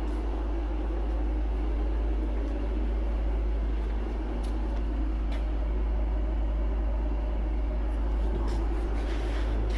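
A steady, deep droning hum, the annoying noise heard inside the apartment, with a few faint ticks over it.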